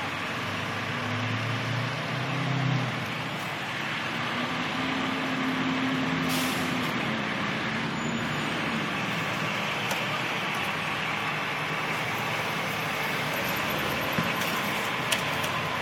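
Fire trucks' diesel engines running as they pull out, with a steady rumble and a brief air-brake hiss about six seconds in.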